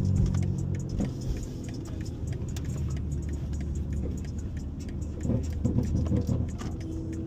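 Car engine running at low speed, a steady low drone, with scattered light clicks and rattles.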